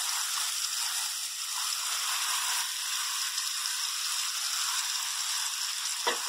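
Egg, milk and sugar batter sizzling in hot ghee and roasted semolina in a steel kadhai: a steady frying hiss of many small bubbles. A short sharp knock comes near the end.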